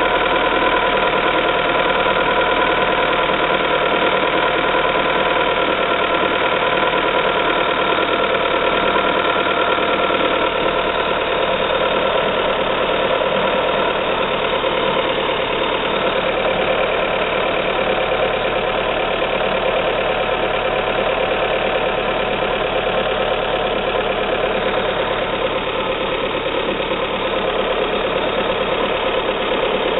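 Fiat Doblo 1.6 16-valve Natural Power engine idling steadily with a rapid, even knock, which the owner puts down to the timing belt.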